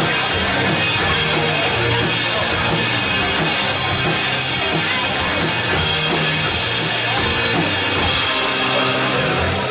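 Rock-style band music with a drum kit and held bass notes, loud and steady, without singing.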